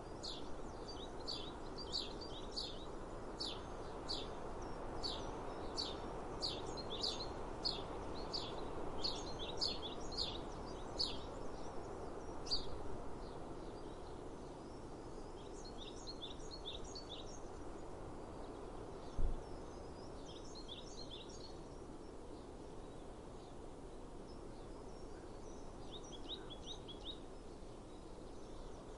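Small birds chirping outdoors in quick runs of short high notes, busy for the first dozen seconds and then in occasional bursts, over a steady wash of outdoor background noise. One dull thump sounds about two-thirds of the way through.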